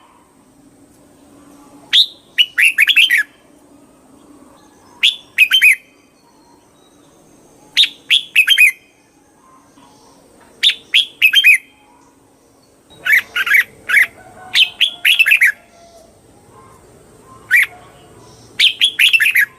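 Red-whiskered bulbul singing: short, loud phrases of quick chirpy notes, repeated every two to three seconds, with a denser run of phrases about two thirds of the way through.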